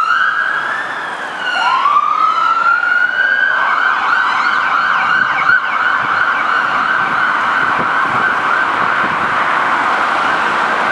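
Two ambulance sirens sounding together: slow rising wail sweeps that switch, a few seconds in, to a fast continuous warble, with a second siren's sweeps heard above.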